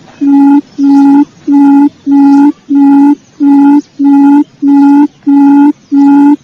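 Quail lure call: a low hooting note with a buzzy edge, repeated evenly and without a break about one and a half times a second.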